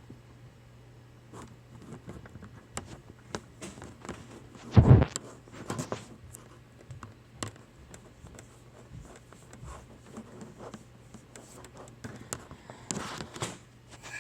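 Scattered small clicks and rustles, as of something being handled close by, with one loud, short low thump about five seconds in and a low steady hum underneath.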